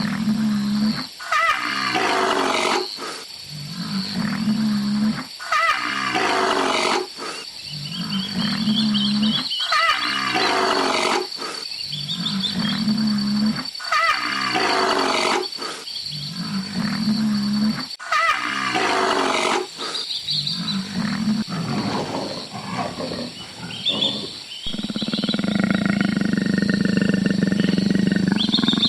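A big cat roaring: a run of loud calls repeated about every two seconds, then a longer unbroken growling roar over the last few seconds.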